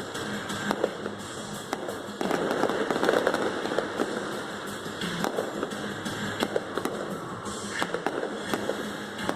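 Fireworks going off in quick succession, many sharp bangs with a denser, louder volley a couple of seconds in, over music played through a stadium sound system.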